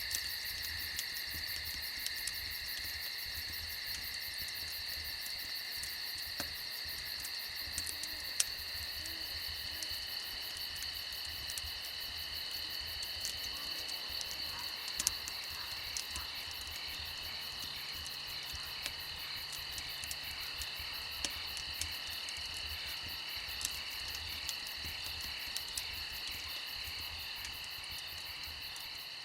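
Steady night chorus of crickets and other insects, with scattered sharp crackles from a campfire.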